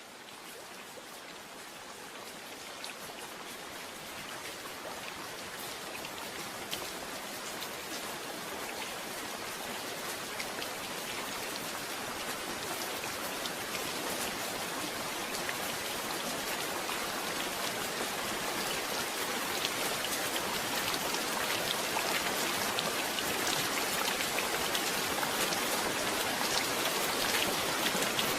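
Steady rain falling, an even hiss broken by many small sharp drop clicks, growing gradually louder throughout.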